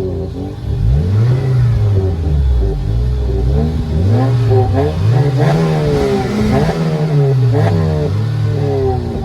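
Car engine revved several times in a row, its pitch climbing and dropping with each blip, through a loud open exhaust.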